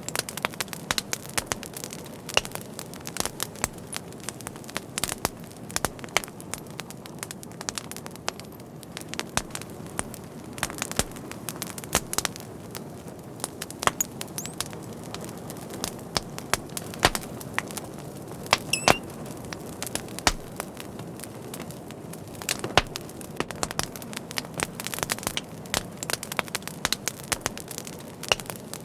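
Fire crackling steadily, with irregular sharp pops and snaps over a low steady rush.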